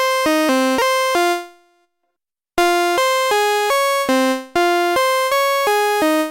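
Waldorf Pulse 2 analog monosynth playing a bright, buzzy one-note-at-a-time melodic line in the middle register, about three short notes a second. The phrase fades out about a second and a half in and a new phrase starts after a short pause.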